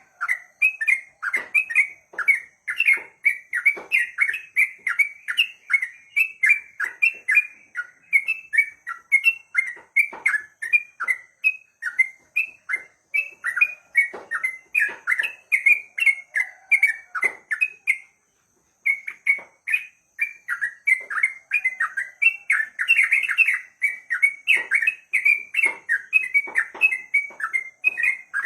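Yellow-vented bulbul (cucak trucuk) singing a long, rapid run of short chirping notes, several a second, pausing briefly about two-thirds of the way through before carrying on.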